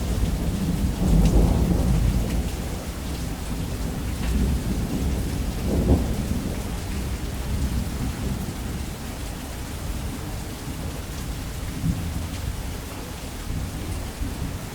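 Thunder rumbling almost without a break under steady heavy rain, with the rumble swelling louder about a second in and again around six seconds in.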